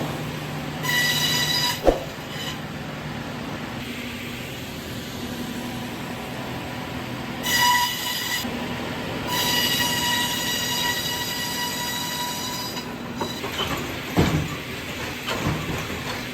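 Sawmill machinery running with a steady low hum and a high, metallic screeching whine that comes and goes, longest for about three seconds in the middle, followed by a few knocks and clattering near the end.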